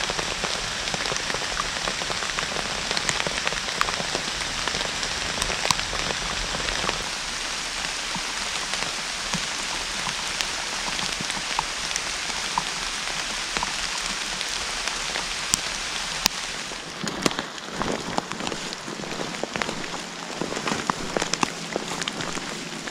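Steady rain falling in a forest, a dense patter of drops. About two-thirds of the way through the hiss thins and separate louder drops and knocks stand out.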